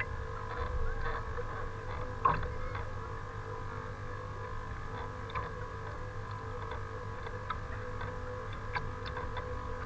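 Wind rumbling on the microphone under a steady hum, with scattered faint ticks and one sharp click about two seconds in.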